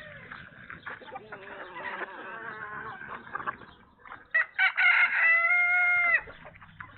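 A rooster crowing: the crow starts with a few short broken notes about four seconds in and ends in a long, loud held note that cuts off sharply. Fainter chicken calls come before it.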